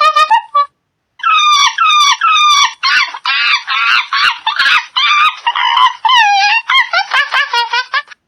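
An animal calling over and over in short, pitched cries, with a brief pause about a second in.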